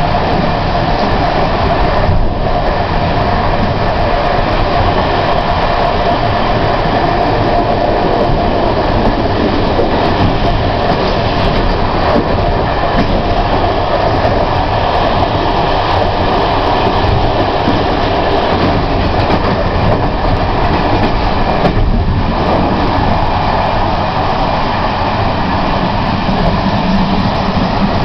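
Prague Metro train running along the track: a steady, loud rush of wheels on rail.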